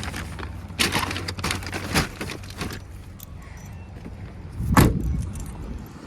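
Keys jangling and rattling in a quick run of clicks, then a single heavy thump a little before the end, over a steady low rumble.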